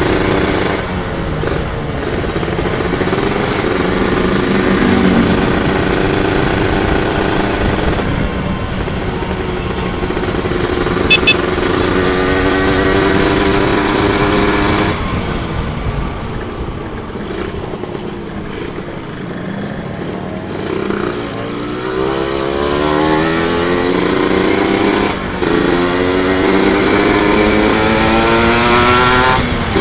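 Two-stroke single-cylinder engine of a Kawasaki Ninja 150 motorcycle under way, revving up through the gears. The pitch climbs, drops briefly at each shift, eases off for a few seconds past the middle, then climbs again. A very short high beep sounds about eleven seconds in.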